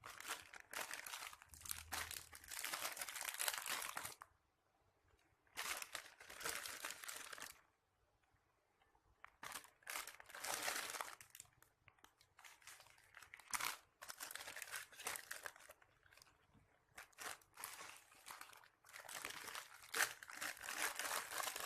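Plastic packaging crinkling and rustling in repeated handled bursts with short pauses between them, as squishy toys in their plastic bags are packed into a storage box.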